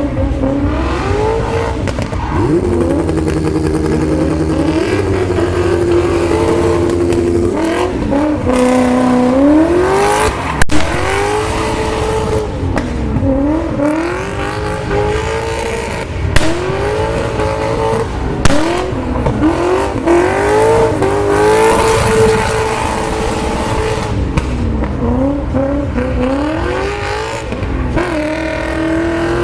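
A V8-swapped BMW E36 Compact drifting: the V8 revs up and drops back again and again under throttle, with tyre squeal. A few sharp cracks cut through, most of them in the middle of the run.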